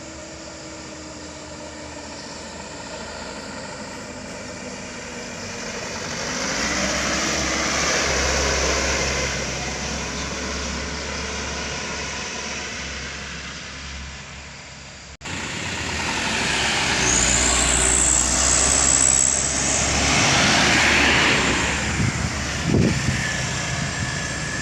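Truck engines running as trucks drive past, swelling and fading. The sound breaks off suddenly about fifteen seconds in and comes back louder, with a brief high whine and a few knocks near the end.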